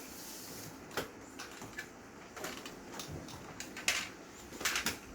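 Plastic toy dinosaurs being handled and knocked together: a scatter of light clicks and clacks, a cluster of sharper knocks near the end.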